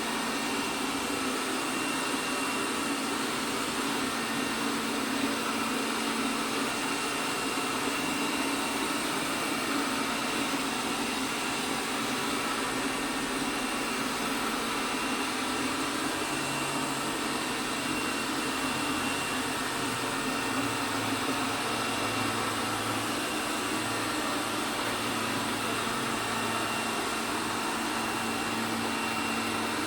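ELARI SmartBot Lite SBT-002A robot vacuum cleaner running, its suction fan making a steady whirr, with a lower hum joining in about halfway through.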